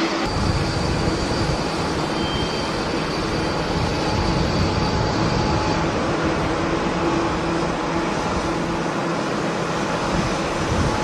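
Steady jet airliner engine noise, with gusty wind buffeting the microphone in a low, flickering rumble that sets in abruptly at the start.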